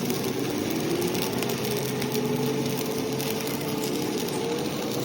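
A power tool running steadily under load, a continuous mid-pitched whine over a hiss.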